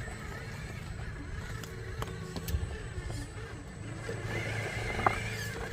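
RC rock crawler's electric motor and geared drivetrain whining steadily as it crawls over the course, with a few sharp clicks and knocks of the truck on the obstacles, the loudest near the end, over a steady low drone.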